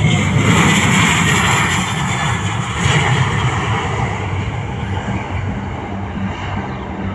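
Airliner engines, loud near the start and slowly fading as the aircraft passes.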